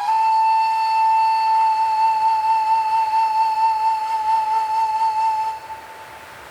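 A single long flute-like note held for about five and a half seconds with a slight vibrato, then stopping, over a faint steady wind-like hiss.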